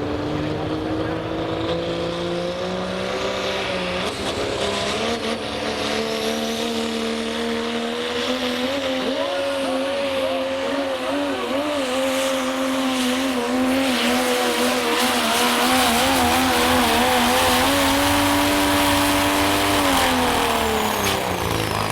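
Turbocharged diesel pulling truck's engine at full throttle dragging a weight sled: its pitch climbs over the first several seconds, wavers up and down in the middle, holds high and loud, then drops away near the end.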